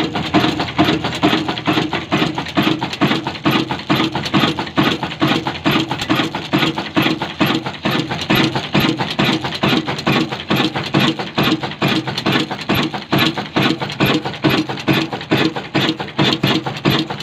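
12 HP Pakistani 'Kala' single-cylinder diesel oil engine running steadily, with an even, rapid beat of firing knocks.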